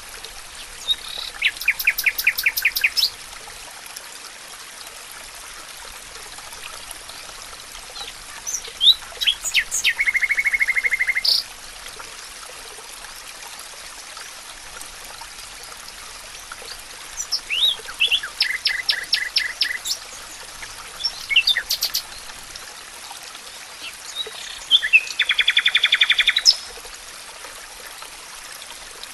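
A songbird singing four short phrases of rapid repeated notes, each a few seconds long, over a steady rush of flowing water, likely a stream.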